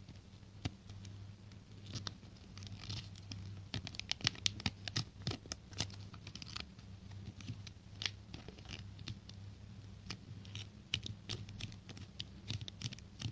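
A sheet of paper being folded and creased by hand for an origami boat: irregular crinkling, rustling and sharp crackles, busiest from about four to seven seconds in. A faint steady low hum runs underneath.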